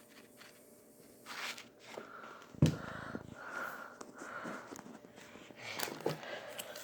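Kitchen handling sounds while mixing ingredients: soft scraping and clicking, with one sharp knock a little over two and a half seconds in, such as a utensil or container striking a bowl or counter.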